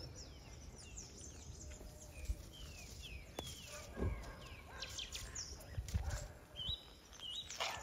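Birds chirping: many short, falling calls repeated throughout, over a low rumble with a few thumps about two, four and six seconds in.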